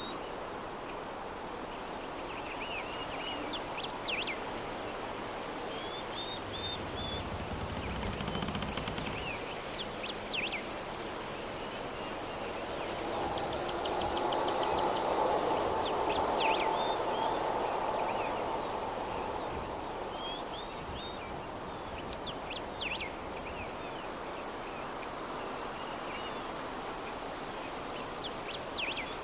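Soft breeze ambience with small birds chirping in short, repeated phrases. The breeze swells for several seconds midway. A brief low rumble comes about seven seconds in.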